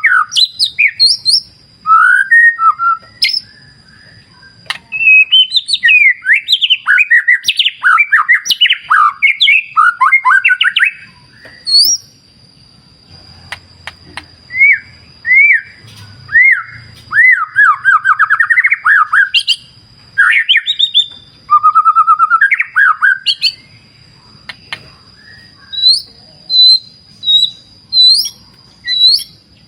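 White-rumped shama (murai batu) singing: bursts of fast, varied whistles, slurred notes and trills separated by short pauses, with a thin steady high tone running behind much of it.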